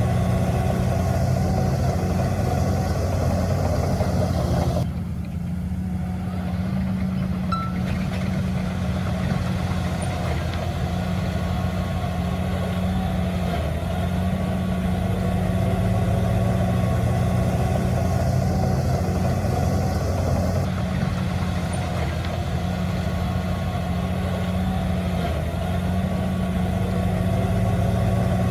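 Diesel engine of heavy earthmoving equipment running steadily. About five seconds in, the sound changes abruptly and loses some of its upper hiss.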